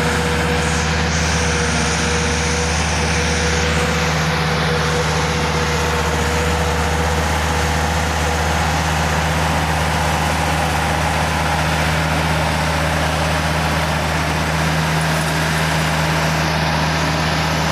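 Old tractor's engine running steadily under load, driving a topper that is cutting down field grass. A thin steady whine sits over the engine for the first several seconds.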